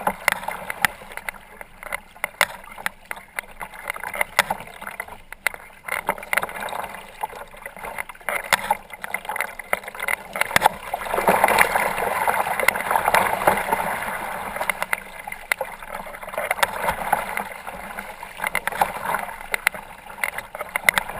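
Choppy lake water splashing and slapping against a kayak's hull, with many short sharp slaps. About eleven seconds in, a louder rush of water swells for a few seconds as a bigger wave passes.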